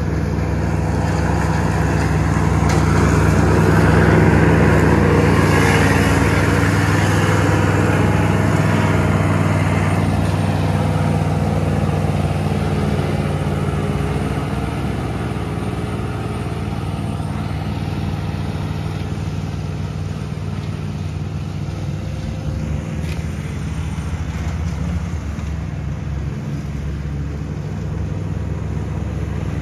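John Deere Z320R zero-turn mower's engine running steadily while mowing. It grows louder to a peak about four seconds in as the mower comes close, then eases back.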